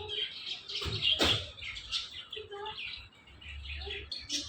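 Indian ringneck parrot (rose-ringed parakeet) chattering in quick short chirps, with two sharp knocks about a second in.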